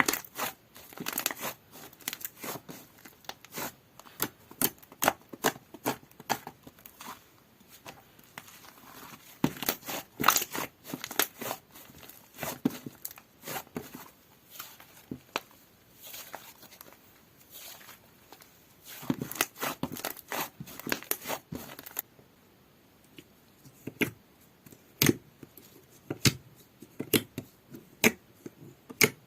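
Slime being squished, poked and stretched by hand, giving sticky clicks, small pops and crinkly crackles in uneven bursts. The texture of the clicks changes about 22 seconds in, as a different slime is handled.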